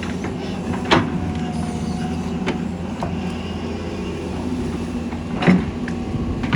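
Doosan excavator's diesel engine running steadily under work, with two loud sharp knocks, one about a second in and one near the end, and a few lighter clicks between.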